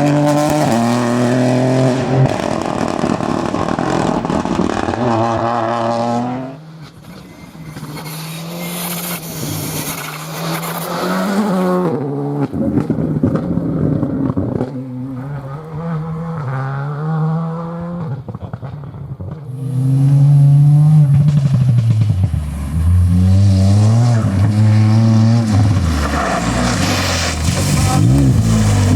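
Rally cars driven flat out on a special stage, engines revving up and falling back through gear changes as they pass. The sound comes as a series of separate passes, one car after another, with a quieter stretch about seven seconds in.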